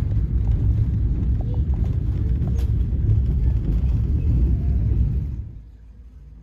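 Heavy low rumble of a passenger train in motion, which stops abruptly about five seconds in, leaving a much quieter low hum.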